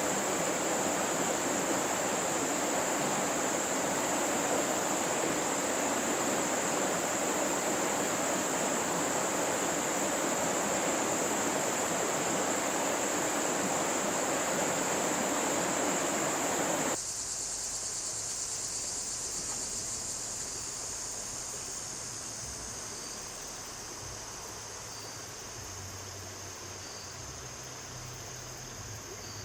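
Steady insect chorus, a continuous high-pitched trill, over the even rush of flowing water. A little over halfway through, the water sound cuts off abruptly and leaves the insects alone, more quietly.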